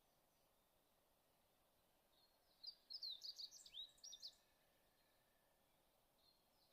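A songbird singing one short burst of quick chirps and whistled glides about halfway through, with fainter chirps near the start and end, over a faint steady hiss.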